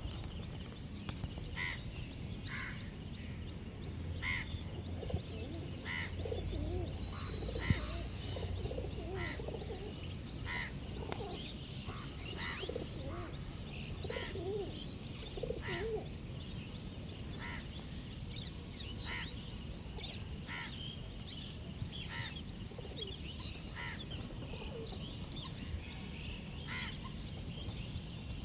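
Several birds calling: a short high call repeats about once a second throughout, with lower, wavering calls from other birds mixed in during the middle stretch.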